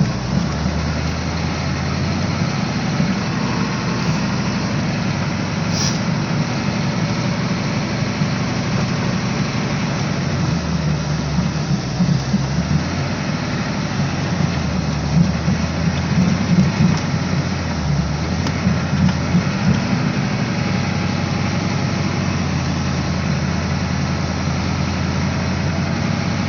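Ford 6.9-litre IDI V8 diesel running steadily as the 1986 F250 is driven, its low note rising and falling slightly.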